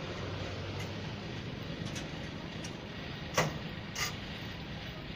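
Steady engine and road noise from vehicles, with a sharp knock about three and a half seconds in and a softer one just after.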